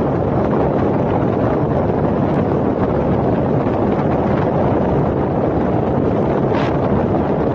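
Steady wind buffeting the microphone over the road and engine noise of a moving vehicle in traffic. A brief higher-pitched sound comes about six and a half seconds in.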